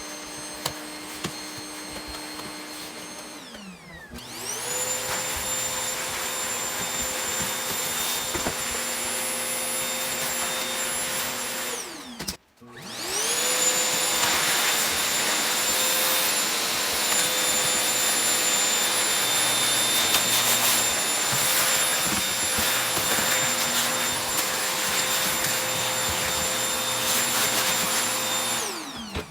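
Vacuum cleaner motor running with a steady whine. About four seconds in it winds down and spins up again. It stops abruptly about twelve seconds in, starts straight back up, and winds down near the end.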